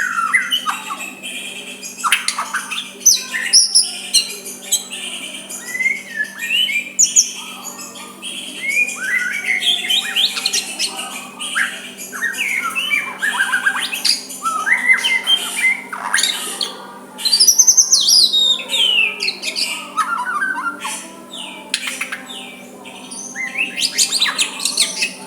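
White-rumped shama (murai batu) singing a continuous, varied song of short whistles, chirps, rising and falling glides and rasping notes, with a faint steady hum underneath.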